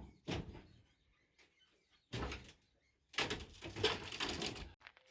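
Wooden window-frame paneling being pried loose and handled inside the van: a few sharp knocks, a thump about two seconds in, then a second and a half of scraping and rattling.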